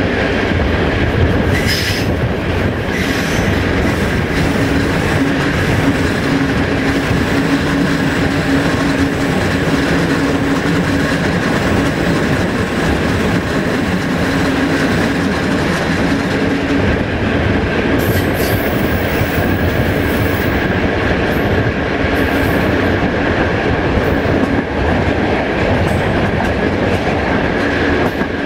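Passenger coaches of an electric-hauled express train running at speed, heard from an open coach window: a steady rumble of wheels on the rails with rushing air. A steady high-pitched whine runs through it.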